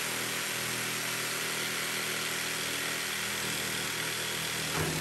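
Corded jigsaw running steadily as its blade cuts into a weathered barnwood board: a constant motor hum with the rasp of the reciprocating blade.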